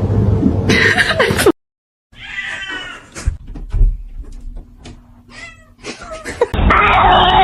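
Cats meowing in a string of short clips. First comes a falling meow that cuts off into a moment of silence. Then a series of short meows with a few clicks, and near the end a louder, noisier clip with more meowing.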